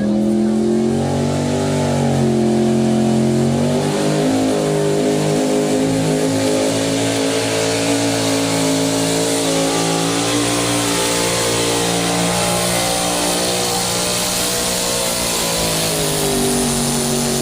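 A competition pulling vehicle's engine running hard at high revs. Its pitch climbs over the first few seconds, holds with small wobbles, and falls away near the end.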